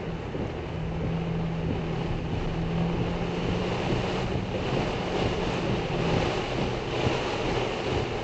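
Heavy rain and gusting wind on a moving car, heard from inside the cabin: a steady rush of rain on the windshield and body with tyre noise on the wet road. A low steady hum runs beneath it and stops about six seconds in.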